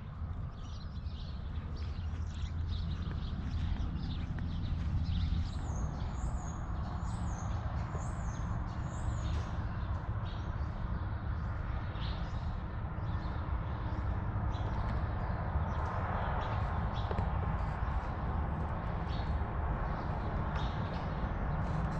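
Small birds chirping repeatedly over a steady low rumble of outdoor background noise, with a run of quick high chirps from about six to nine seconds in.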